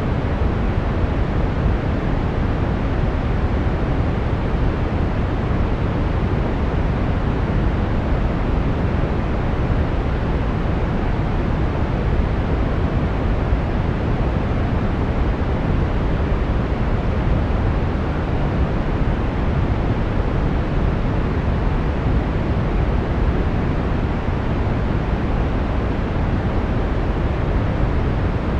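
Brown noise: a steady, even rumble of random noise, strongest in the deep low end and thinning out toward the treble, with no changes or events.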